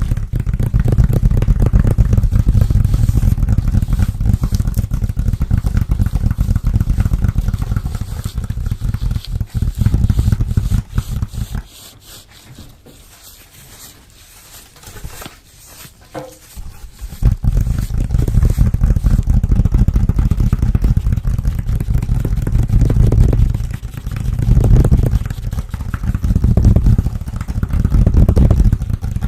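Close-miked ASMR hand sounds: fingers rapidly scratching, tapping and rubbing, dense and continuous with a heavy low rumble. It drops away for several seconds near the middle, then comes back in surges.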